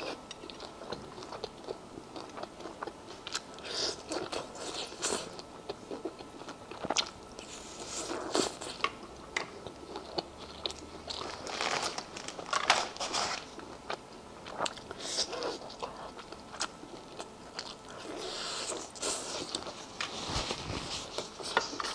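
Close-up chewing and crunching of cooked lobster meat: irregular bites and mouth sounds, with scattered crisp clicks.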